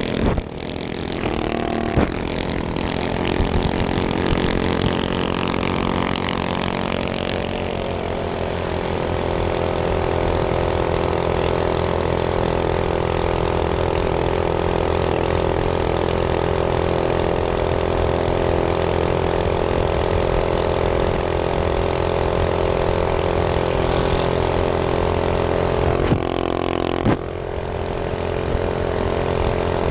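Small minibike engine running steadily under throttle while riding. The throttle eases off briefly about half a second in and again near the end, then the engine picks back up.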